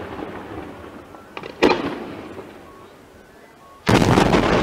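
Aerial firework shells bursting: a sharp bang about a second and a half in, then a much louder boom near the end, each trailing off in a long rolling echo.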